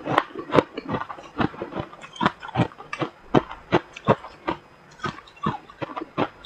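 Close-up chewing of freezer frost: a quick, irregular run of crisp crunches and crackles as the soft ice is chewed in the mouth.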